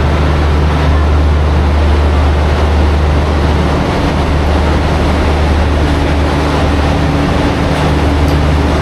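Diesel passenger train running close by: a loud, steady deep hum over an even rumble.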